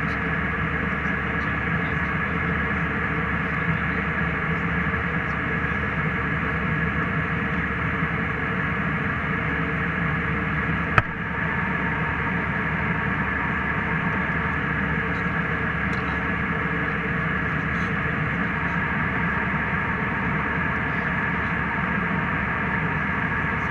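Steady jet airliner cabin noise: an even rush of engine and airflow with a few steady tones in it. A single sharp click comes about halfway through.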